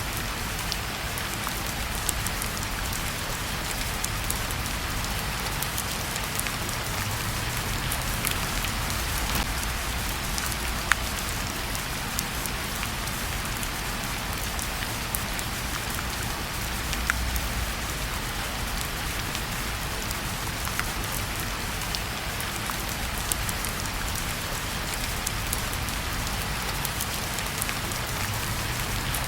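Steady rain falling on a surface, an even hiss with scattered sharp ticks, a couple of them louder.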